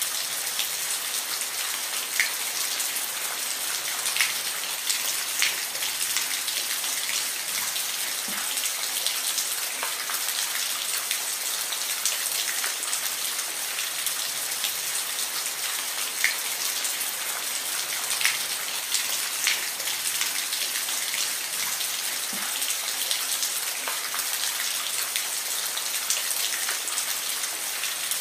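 Steady rain falling, an even hiss with individual drops ticking sharply against a surface here and there.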